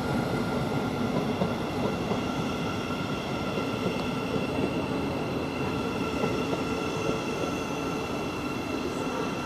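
Siemens Class 700 electric multiple unit standing at the platform, its on-board electrical equipment giving a steady hum with several constant high-pitched whines.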